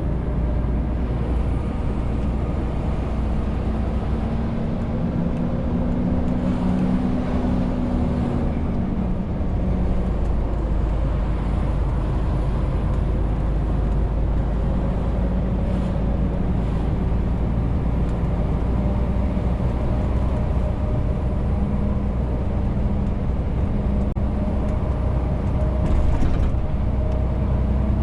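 Renault T520 truck's straight-six diesel engine running steadily under the load of a fully laden 40-tonne rig, with road noise. Between about four and nine seconds in, the engine note shifts slightly higher, then settles back.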